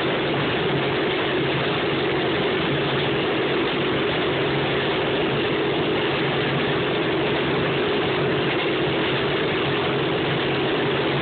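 Railroad motorcar (speeder) engine running at a steady, even speed with a constant hum and rumble.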